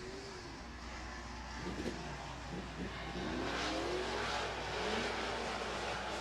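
Engines of several dirt-track super trucks racing in a pack. Their pitches rise and fall as they rev through the turns, and the sound grows louder about halfway through as the pack comes past.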